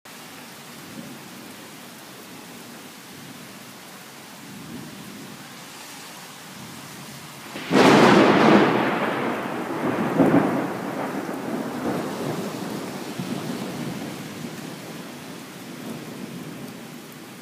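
Steady rain, then a sudden loud thunderclap about eight seconds in, with a second surge about two seconds later, the thunder fading away over several seconds.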